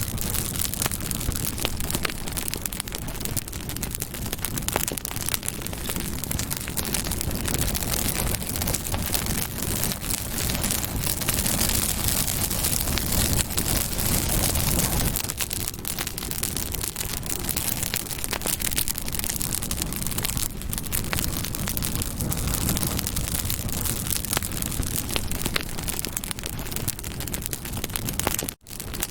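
Campfire burning: dense crackling and popping of burning wood over a low rushing roar. The sound drops out for an instant near the end.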